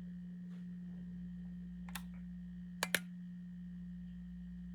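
A steady low hum with three short sharp clicks: one about two seconds in, then two close together about a second later.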